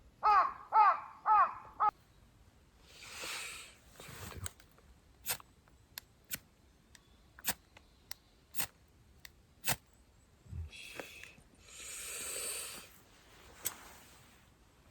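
A crow cawing three times in quick succession, followed by scattered sharp clicks and snaps and two spells of soft rustling.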